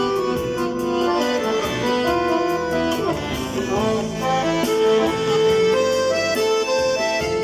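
Accordion playing a melody with MIDI-driven accompaniment voices, sustained reedy notes changing in a steady tune.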